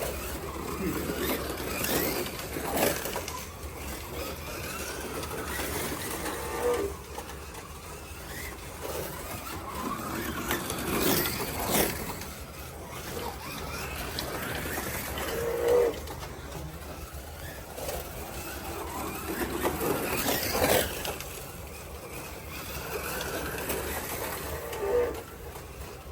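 Slot cars running on a track: small electric motors whine as the cars sweep past every few seconds, rising and falling as each goes by.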